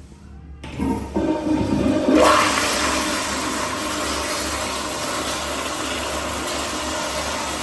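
American Standard Madera toilet flushing. A rush of water starts about half a second in, surges to its loudest about two seconds in, then settles into a steady, even rushing.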